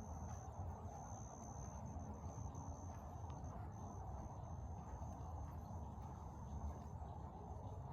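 An insect trilling steadily at a high pitch, with a few brief breaks, over a faint low rumble.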